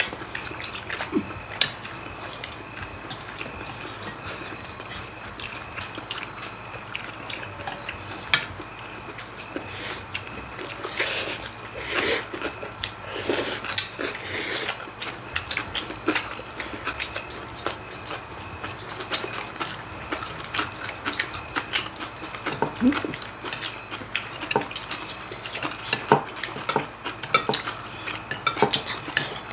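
Chopsticks and spoons clicking against stainless steel bowls and dishes during a meal, with chewing and a run of loud noodle slurps about a third of the way in.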